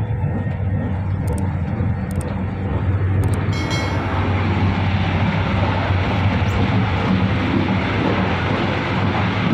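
Steady running noise of the moving Fadak passenger train heard inside the carriage: a continuous low rumble and rush with a few faint clicks.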